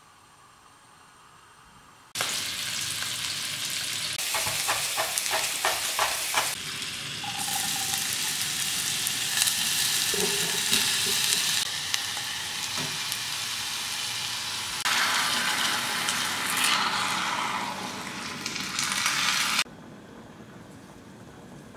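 Food sizzling in hot pans across several short cuts: fresh pork sausages frying in a dry pan, then chopped onion and celery frying in oil. The sizzle starts about two seconds in, with a quick run of light clicks soon after. Near the end it cuts off abruptly to a quieter sound over a pot of tomato sauce.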